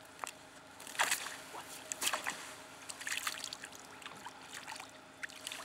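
Water splashing and sloshing in irregular bursts, the loudest about a second in, with a few short sharp knocks.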